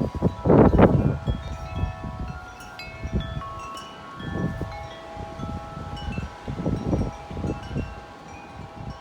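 Wind chimes ringing continuously in strong wind, many overlapping long tones struck again and again. Gusts buffet the microphone, strongest about a second in and again around the middle and near the end.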